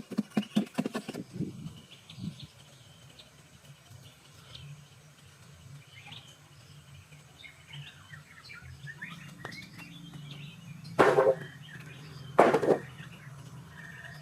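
A fast run of short rhythmic strokes that stops about a second in, then faint bird chirps with a low steady hum, and two short loud harsh noises about a second and a half apart near the end.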